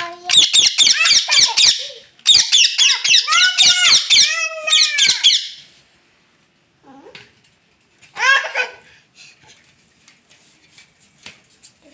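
Parrot screeching: two long runs of rapid, repeated high shrieks in the first half, then a single short call a little after the two-thirds mark.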